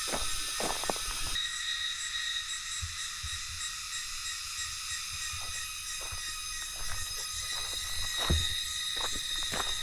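Footsteps on a forest trail, irregular steps about a second apart, under a steady high-pitched insect chorus. Part of the chorus drops out about a second and a half in.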